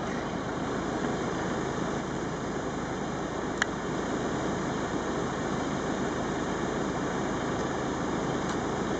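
A car engine idling steadily, with one sharp click about three and a half seconds in.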